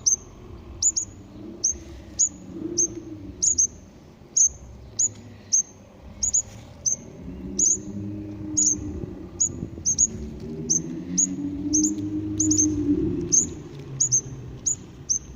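Baby bird chicks peeping: short, high, downward-sliding peeps repeated about twice a second. A fainter, low wavering sound runs underneath through the middle.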